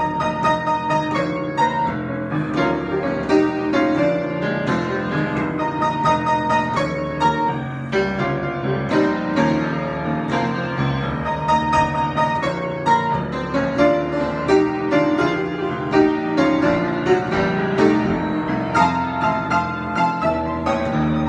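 Piano played in a free improvisation, a dense run of notes and chords that keeps going throughout.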